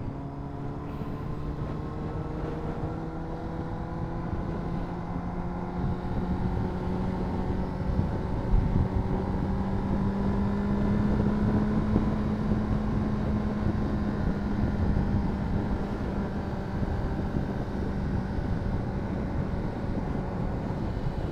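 Honda CBR600RR's inline-four engine running under way in one gear, its pitch rising slowly for about ten seconds, then holding steady and easing off a little.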